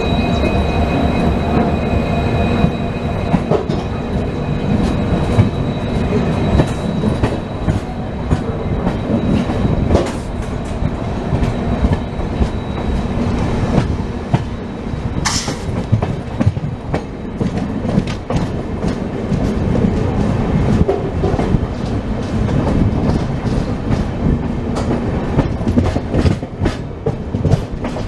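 Passenger express train running at speed, a steady rumble with frequent clicks and clatter of wheels over the rails. A thin high squeal sounds through the first half and fades out around the middle.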